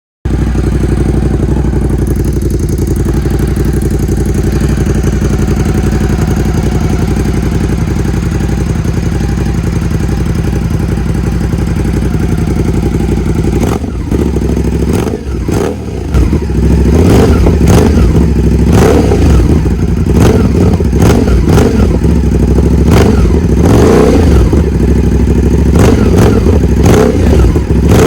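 Ducati SuperSport's 937 cc L-twin engine, breathing through an aftermarket Competition Werkes exhaust, idling steadily, then revved in a string of quick throttle blips from about halfway on.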